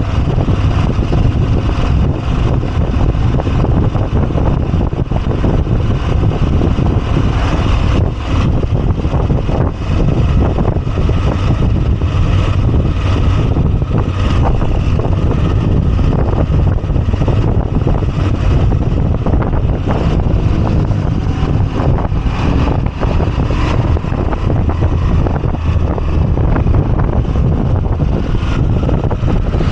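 Moto Guzzi V85TT's air-cooled transverse V-twin engine running steadily on the move, mixed with wind noise on the microphone.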